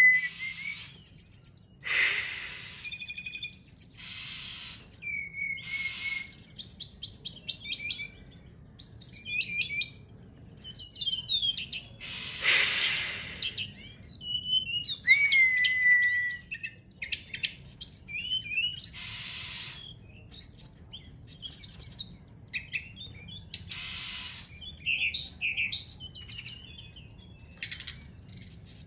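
A brown-chested jungle flycatcher (SRDC, sikatan rimba dada coklat) is practising its song in a rich, varied stream of quick high chirps, trills and whistles. The song is broken by a few harsh raspy bursts and a long slurred whistle about halfway through.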